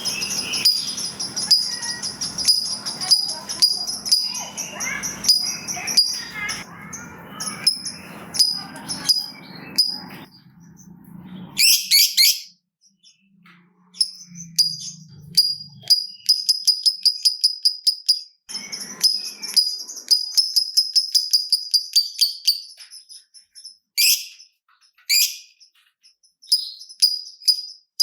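Lovebird ticking chatter: fast trains of short, high-pitched clicks, broken by a few louder, sweeping shrieks. A rougher, lower noise runs under the chatter for roughly the first ten seconds.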